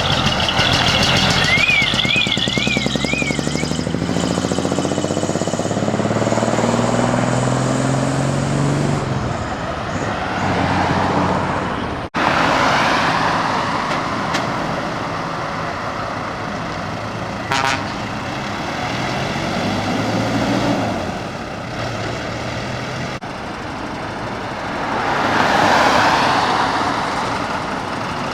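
Heavy decorated trucks driving out one after another, their diesel engines revving up and rising in pitch as they pull away. A brief warbling horn tone sounds near the start, and a short horn blast comes about two-thirds of the way through. A truck passing close swells the noise near the end.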